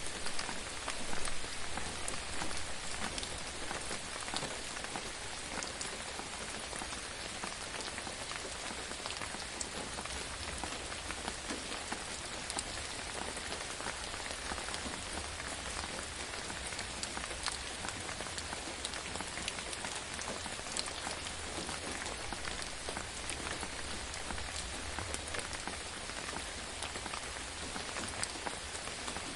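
Steady rain falling on a surface, an even hiss with many small pattering drops.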